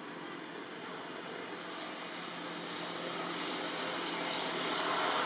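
A distant engine's steady drone, growing gradually louder.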